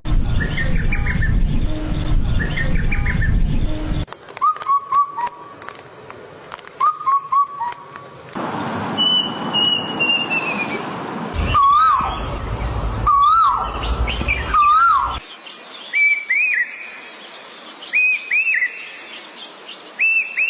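Calls of several different birds, one short clip after another. Each clip has its own repeated whistled call and background, changing every few seconds: short phrases, then a long falling whistle, then hooked notes repeated about once a second.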